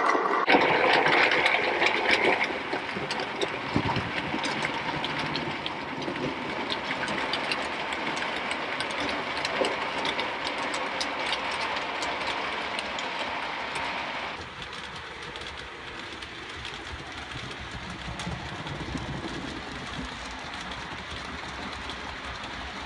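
00 gauge model train running along the track, a steady rush of running noise with many fine clicks as the wheels pass over the rail joints. About 14 seconds in, the higher part of the sound drops away and it goes quieter.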